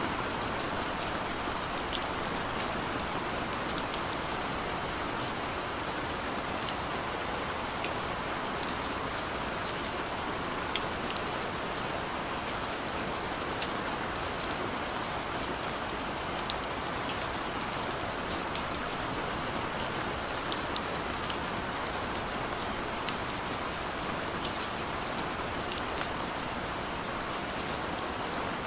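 Steady rain falling on a surface, an even hiss with many individual drops pattering sharply throughout.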